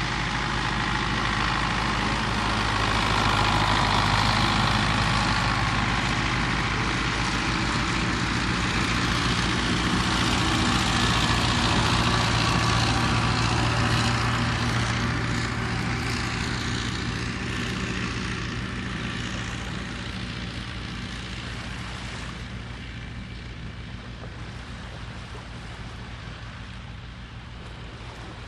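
A motor engine running steadily with a low hum, with a rushing noise that grows louder over the first dozen seconds and then fades away over the last third.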